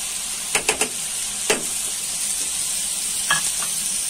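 Chopped tomatoes sizzling in hot oil in a kadai with a steady hiss, while they are stirred with a plastic spatula. A few sharp knocks against the pan come in a quick cluster about half a second in, then once at about a second and a half and again just past three seconds.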